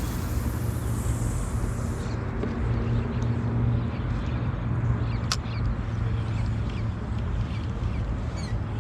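Steady low outdoor rumble and hiss of open water around a kayak at sea, with a single sharp click about five seconds in.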